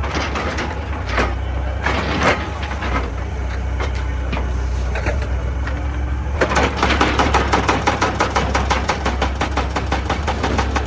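Excavator's diesel engine running steadily with scattered knocks and clatter of rock. About six seconds in, a fast, even hammering of about seven blows a second starts and keeps on.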